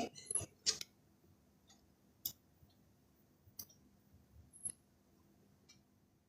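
A few faint, scattered clicks and taps: a quick cluster at the start, then single clicks about two, three and a half and four and a half seconds in.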